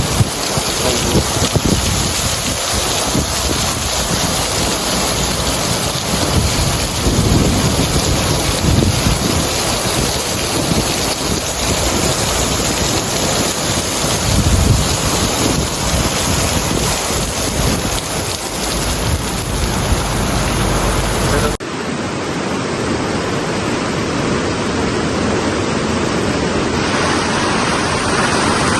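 Torrential downpour: heavy rain pouring down in a dense, steady hiss, with gusts of wind buffeting the microphone. About 21 seconds in the sound cuts abruptly to another stretch of the same heavy rain.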